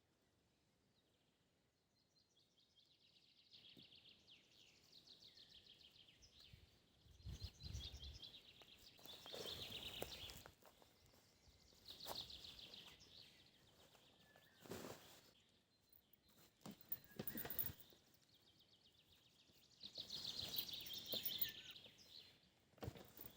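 Faint birdsong: bursts of rapid trills, repeated about four times, with a few dull low thumps in between.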